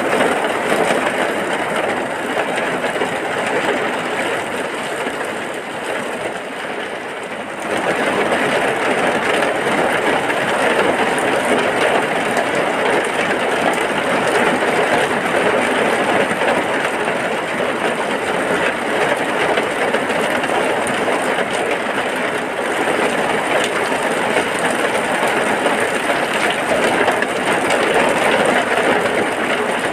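Heavy rain pouring steadily as a dense, even hiss. It eases slightly for a few seconds, then comes back suddenly louder about eight seconds in.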